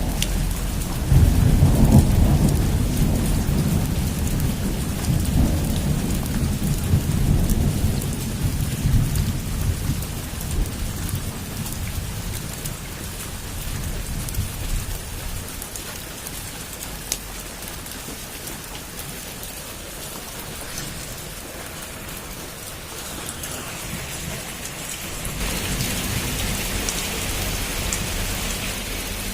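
Heavy rain on a roof, with a deep roll of thunder starting about a second in and fading away over the next several seconds. Near the end the rain suddenly gets louder.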